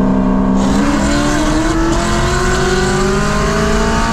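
Supercharged Chevy SS V8, heard from inside the cabin, goes to full throttle about half a second in and pulls hard, its pitch climbing steadily through the gear.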